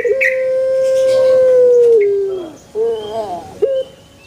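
Male puter (barbary dove) cooing: a quick stuttering start, then one long held coo of about two seconds that drops in pitch at its end, followed by a short wavering coo phrase.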